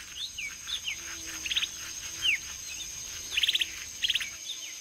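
Wild birds calling: several short falling chirps and three quick rattling trills, over a steady high whine in the background.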